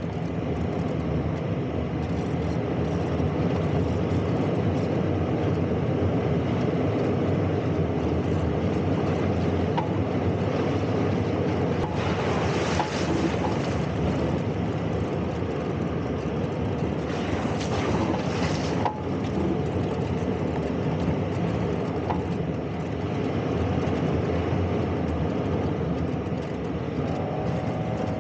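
Toyota 4Runner driving on a rough off-road trail: a steady rumble of engine and tyres, with brief louder hissing stretches about twelve and seventeen seconds in.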